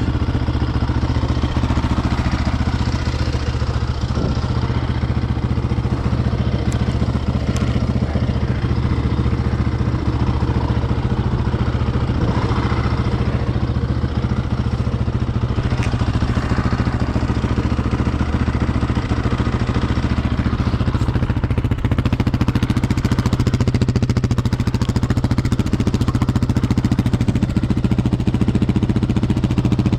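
Yamaha Raptor ATV's single-cylinder engine running at steady, even revs.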